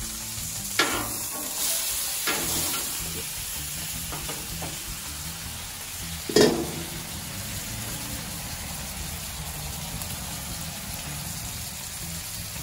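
Potatoes and a filet mignon sizzling steadily on a hot steel flat-top griddle, with a few metal knocks from a stainless basting dome being lifted and set down; the loudest clank comes about six seconds in.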